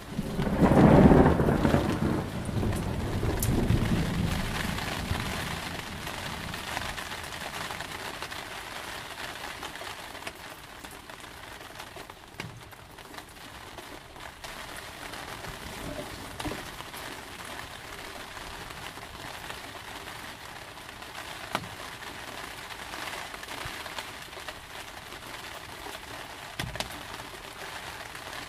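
A loud thunderclap right at the start, rumbling and fading over several seconds, over steady rain. Scattered drops patter through the rest.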